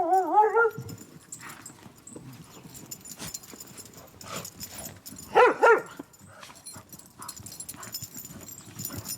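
A dog's long, steady whining cry, which tails off within the first second. About five and a half seconds in, the dog gives two short, quick yelps.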